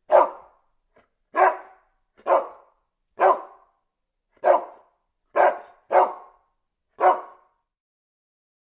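A dog barking: eight single barks, roughly one a second, with silence between them.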